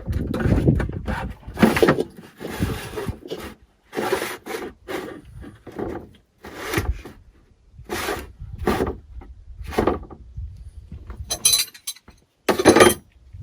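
Handling noise: an uneven series of short knocks, scrapes and rubbing as service tools and gear are moved about, with a louder clatter near the end.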